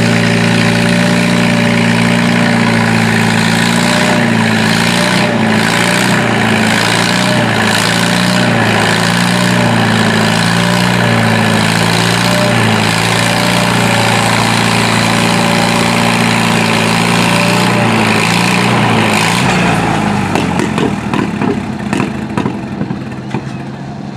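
Antique tractor engine running hard and steady, its pitch wavering slightly. About twenty seconds in the engine note drops and fades, leaving fainter noise with a few knocks.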